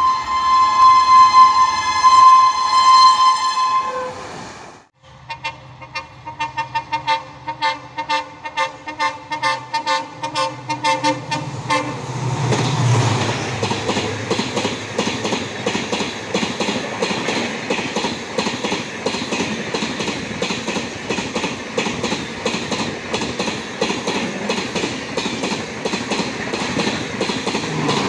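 Diesel locomotive horn sounding loudly for about four seconds, then cutting off abruptly. The horn sounds again over a fast, even clickety-clack. From about twelve seconds in, an express train rushes past at speed with steady rhythmic wheel clatter over the rail joints.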